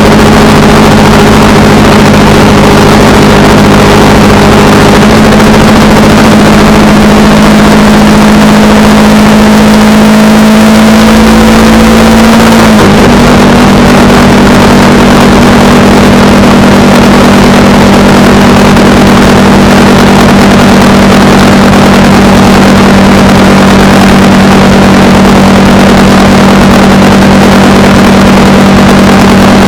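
Honda Rebel 300 motorcycle's single-cylinder engine running steadily at cruising speed under loud wind rush. The engine note steps down slightly about halfway through.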